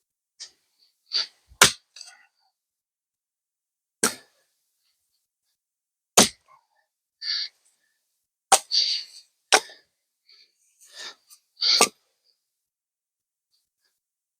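Axe swung into wood to split logs: about six sharp strikes, one to two seconds apart, with short breathy bursts between the swings.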